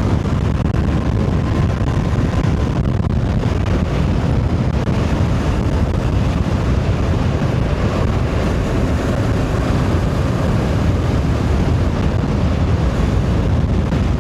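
Steady wind noise buffeting a helmet-mounted microphone while riding a Voge DS525X motorcycle at road speed, with the bike's engine running underneath.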